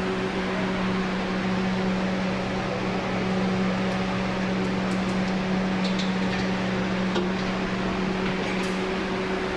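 A steady, even mechanical hum over a constant noisy drone, with a few faint ticks near the end.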